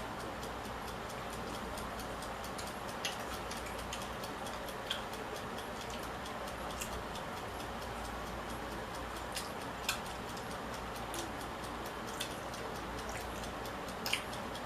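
A few scattered small clicks and taps of eating at the table, spaced irregularly over a steady background hiss.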